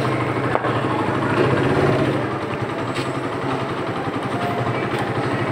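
Motorcycle engine idling steadily, with a quick low pulsing.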